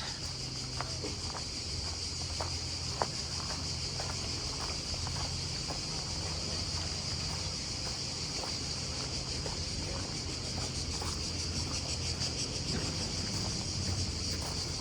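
Cicadas droning steadily in the trees in a high, unbroken band, over a low steady hum and faint ticking footsteps.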